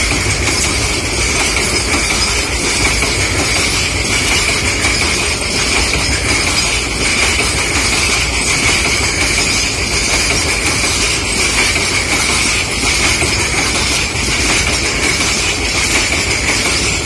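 Covered freight wagons of a long goods train rolling past on the adjacent track: a steady rumble of wheels on rails with light clicking over the joints and a steady high-pitched whine over it.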